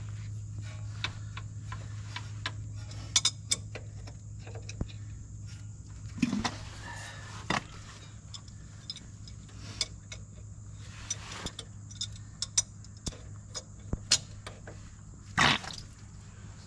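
Socket wrench on the crank bolt clicking in irregular runs, with a few scrapes, as the Ford FE big-block engine of a 1967 F100 is turned over by hand with its spark plugs out. A steady low hum runs underneath.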